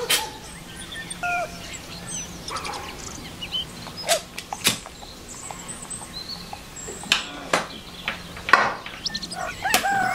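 Birds chirping now and then in the background, with several sharp clicks and knocks from objects being handled on a table.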